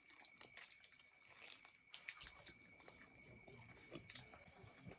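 Faint chewing and crunching of food at close range, as a string of small irregular clicks, over a thin steady high-pitched whine.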